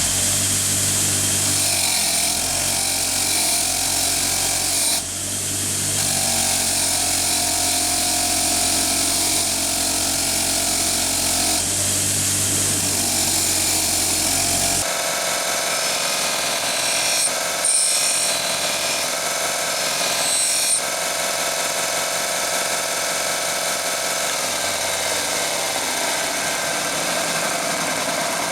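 Motor-driven wire wheel running against the steel head of a hatchet, scrubbing off filing marks and burrs. About halfway through the sound changes to a lighter, higher running, consistent with the switch to a Scotch-Brite abrasive wheel to blend the surface.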